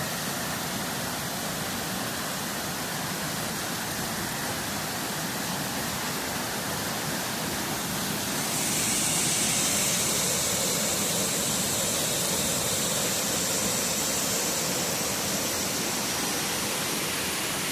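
Waterfall: the steady rush of falling water, turning a little louder and hissier about halfway through.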